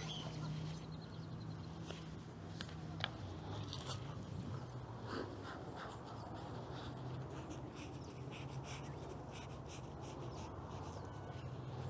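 Knife sawing through an English muffin: faint, repeated scratchy rasping strokes.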